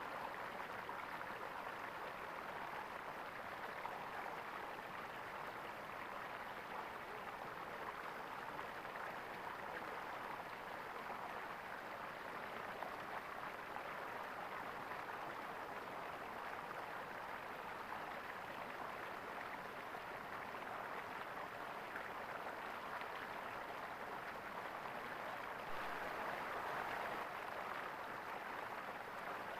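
Water gurgling steadily in a small stream, an even rushing babble that grows briefly a little louder near the end.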